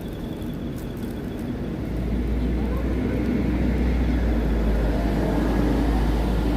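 Low rumble of a road vehicle running close by, growing louder about two seconds in and staying steady.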